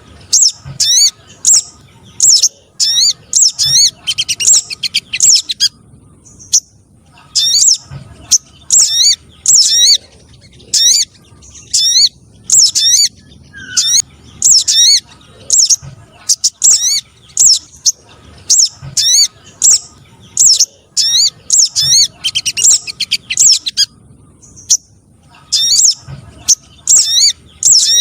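Calls of spiderhunters (sogok ontong trotol) mixed with other sogon calls, used as a bird lure: sharp, high chirps repeated rapidly in phrases of about a second with short pauses between.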